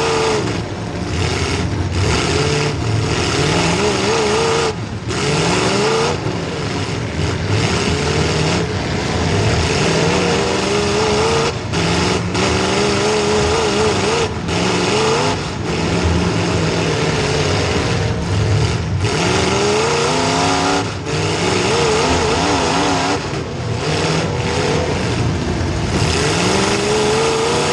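Demolition derby car's small-block Chevy V8 revving hard over and over, its pitch rising and falling, with brief drops each time the throttle lifts.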